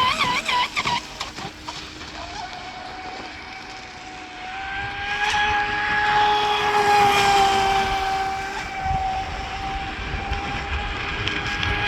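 Radio-controlled speedboat's brushless electric motor whining at full throttle. The pitch warbles quickly for the first second as the hull skips over the water, then settles into a steady high whine that grows louder toward the middle and eases off slightly.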